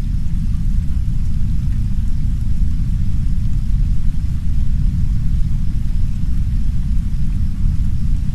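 Heavy brown noise, a deep steady rumble with no breaks, with soft rain faintly hissing above it.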